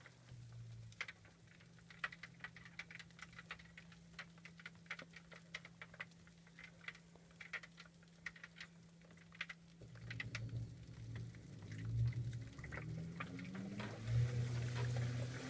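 2012 LG top-load washer on its delicates cycle. For about ten seconds there are light scattered drips and ticks of water in the tub. Then the impeller motor starts turning, a low hum rising in pitch and growing louder.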